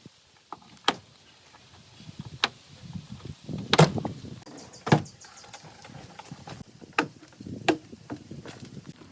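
Irregular knocks and clanks from tools and parts being handled during hands-on car restoration work, the loudest about four seconds in.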